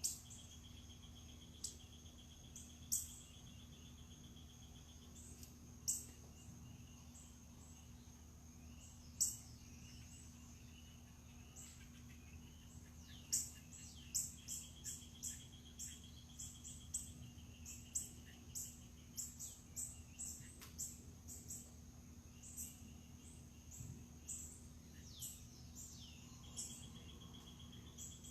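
Outdoor birds calling with short, sharp chirps, scattered at first and then in a quick run of about two a second from about halfway through. A buzzy trill comes and goes three times, over a faint low steady hum.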